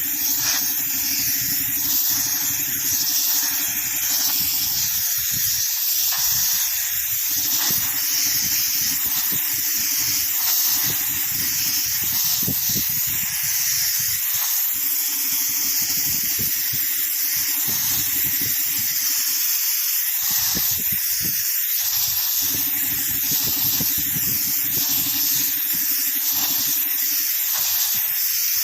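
Compressed air blasting from an air compressor's hose onto a road surface: a loud, continuous hiss, with a lower rumble that cuts in and out every few seconds.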